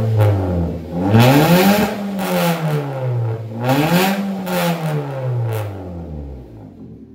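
Toyota Calya / Daihatsu Sigra engine revved through an aftermarket racing exhaust and muffler. Three revs in turn, each rising in pitch and falling back, then it settles to idle near the end.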